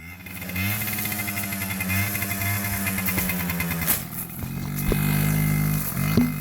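Small dirt bike engine revving up and holding steady, easing off about four seconds in, then revving up again.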